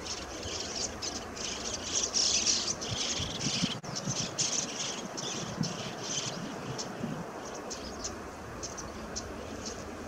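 Birds chirping in a rapid run of short, high calls, busiest about two to three seconds in and thinning out toward the end, over a steady low background noise.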